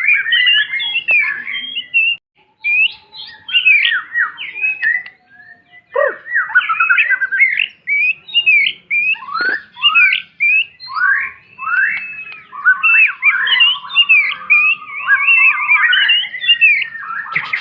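White-rumped shama singing a loud, varied song of rapid whistled phrases and sharp chattering notes, with a longer drawn-out whistle in the second half.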